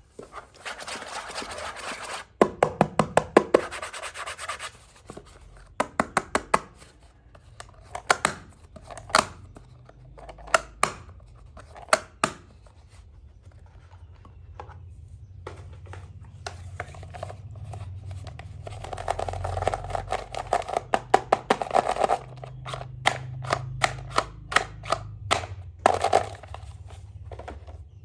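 Small plastic toy play-set pieces and their packaging being handled up close: stretches of rubbing and scraping, broken by runs of quick clicks and taps.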